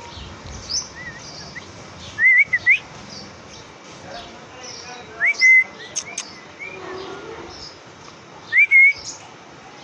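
Pet parrot whistling short, rising notes in several bursts: a pair about two seconds in, another around five seconds in, and one more near the end.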